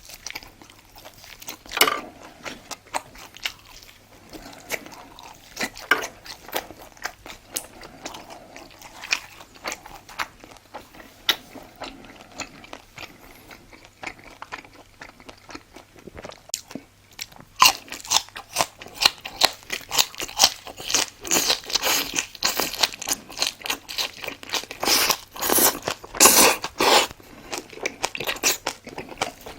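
Close-miked chewing and crunching of food, sparse and soft at first, then dense, loud crunching from a little past the halfway point.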